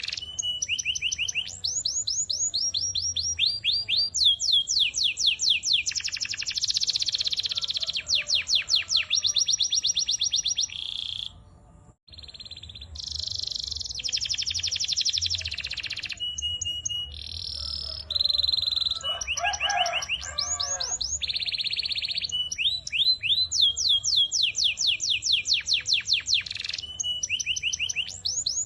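White domestic canary singing continuously in fast rolled trills of repeated high notes, phrase after phrase, with a brief break about twelve seconds in.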